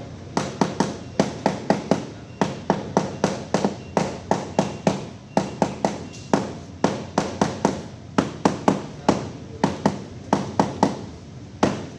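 Hand hammering: a rapid series of sharp blows in quick clusters of several strikes, about two to four a second, each with a brief ring.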